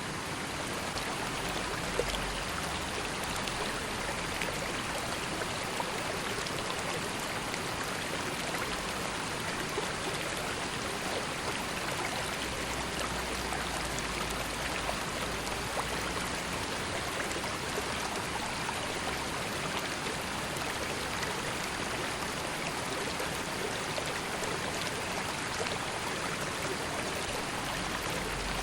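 River water flowing and rippling in a steady rush with small splashes and trickles.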